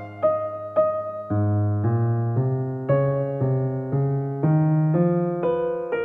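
Soft background music: electric piano playing a slow sequence of sustained notes, a new note or chord about every half second.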